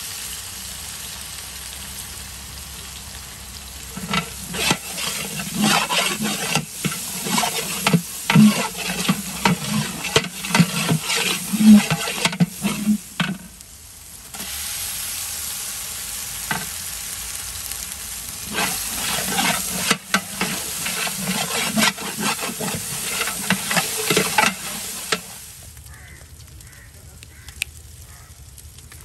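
Metal ladle stirring and scraping frying onions and ginger paste in a large aluminium pot, over a steady sizzle of hot oil. The scraping comes in two long bouts of rapid, irregular strokes with a short lull between them, and only the sizzle stays, quieter, near the end.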